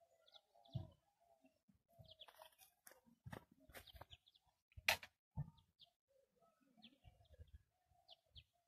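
Faint bird calls: short high chirps and lower wavering calls, with a few sharp clicks around the middle, the loudest about five seconds in.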